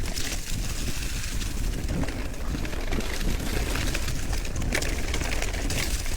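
Wind buffeting the microphone on a fast downhill bicycle ride, a steady low rumble with rushing air and small rattling knocks from the bike over the road.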